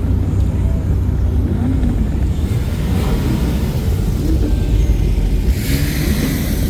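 Car engines rumbling at a steady low pitch, with a rush of hiss joining in about five and a half seconds in.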